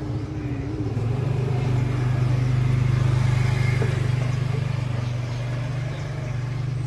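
A steady low engine drone from a motor vehicle, growing louder about a second in and then holding.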